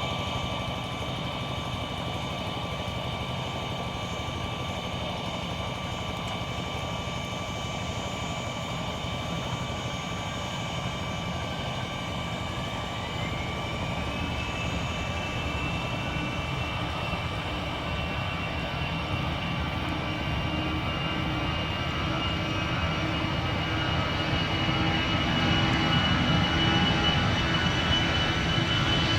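Aircraft engines running with a steady rumble and high whining tones. About halfway through one whine rises in pitch and the sound grows louder toward the end, as the engines spool up for takeoff.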